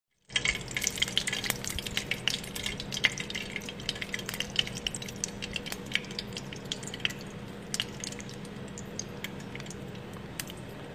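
Light clicks and scrapes of a black plastic spatula against a plate as noodles and a fried egg are pushed into place, over a faint steady hum. The clicks come thickest at the start and thin out after about five seconds.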